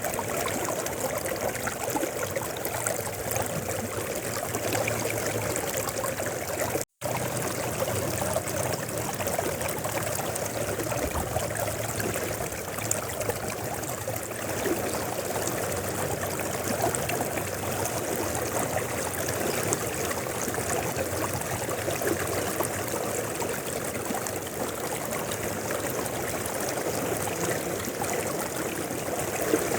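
Mountain river flowing, a steady rush and trickle of water that cuts out for an instant about seven seconds in.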